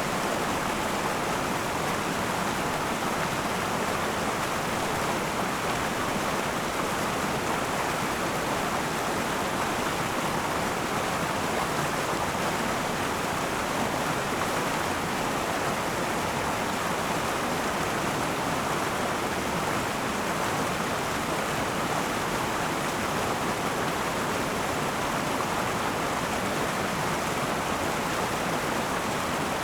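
A river flowing over rocks: a steady rushing of water, even throughout, most of its energy in the middle range.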